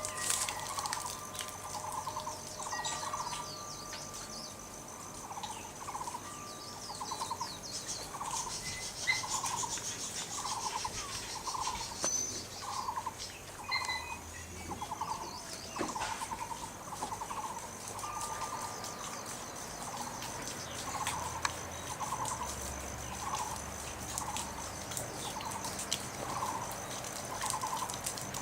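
Bird calling: a short, rapidly pulsed note repeated steadily about once a second, over a faint thin high-pitched whine.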